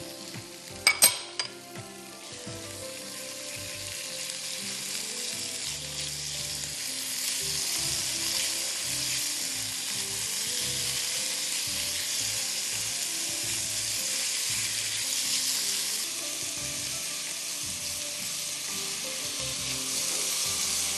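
Chopped chicken breast frying with ginger and garlic in hot oil in a nonstick wok, stirred with a spatula. A few sharp knocks come about a second in, then the sizzle grows louder and holds steady.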